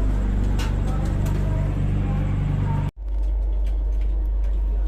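Steady low rumble and hum of a standing passenger train, with faint clicks above it; the sound drops out for an instant about three seconds in, at an edit cut, and resumes much the same.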